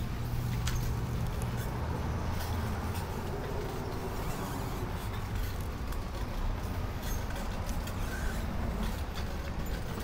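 Steady low rumble of riding noise, rolling and air on the microphone during a ride through city streets, with scattered light clicks and ticks.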